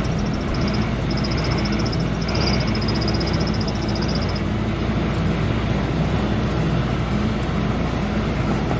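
A small vehicle's engine running while driving along, with steady wind and road rumble. A high, thin tone comes and goes over the first four seconds or so.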